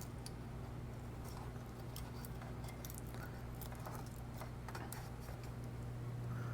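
Scattered light clicks and taps of small parts and tools being handled while a disco light fixture is taken apart for cleaning, over a steady low hum.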